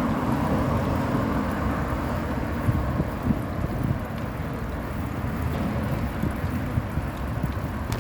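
Wind buffeting the microphone on a moving bicycle, a steady low rumble, with road traffic beneath it.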